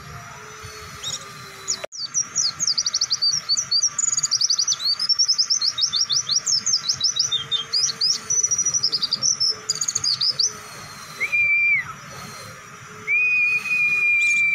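A white-eye (pleci) singing a long, very fast string of high chirps for about eight seconds, the rattling 'ngebren' song, starting right after an abrupt cut in the recording. Later come two long, flat, high whistles that each drop in pitch at the end, over a faint steady hum.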